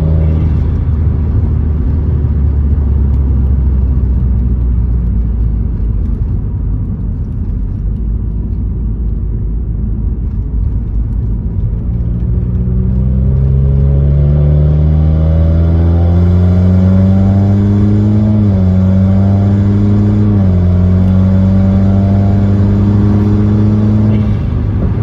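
Tuned Subaru WRX turbocharged flat-four with a CVT, running at a steady low hum, then about halfway through pulling under load with the engine note climbing slowly. The pitch steps down slightly twice, then holds, and the note drops away shortly before the end.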